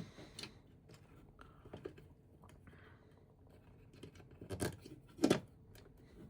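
Small plastic LEGO bricks clicking and rattling as they are handled. Two louder, sharper clicks come less than a second apart near the end.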